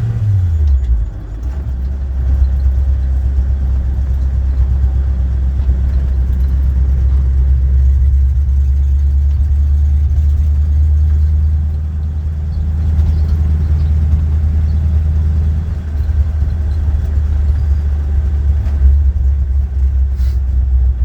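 1952 Ford F-2 pickup's original flathead V8 running under way, heard from inside the cab: its pitch drops about a second in, then it holds a steady low rumble.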